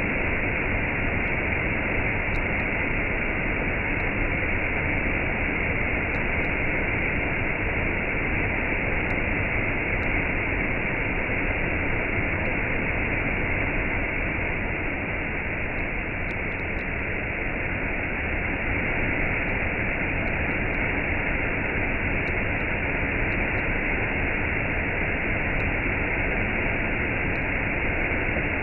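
Waterfall with a cascade rushing steadily: an unbroken, even hiss of falling water with no change in level.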